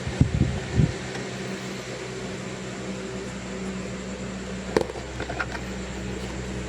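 Steady electric fan hum with a low droning tone. Low knocks in the first second, a single sharp click just under five seconds in, and a few faint ticks after it.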